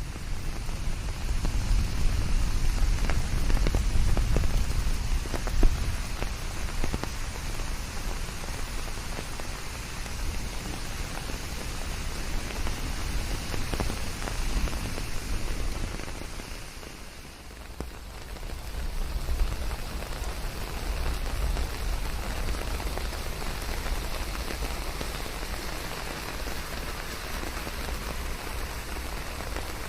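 Steady rain, a dense patter and hiss with a low rumble underneath. The sound dips for a moment about 17 seconds in, then swells back.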